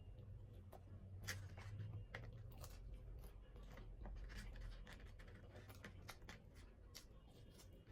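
A person chewing food close to the microphone, heard as faint, irregular short clicks.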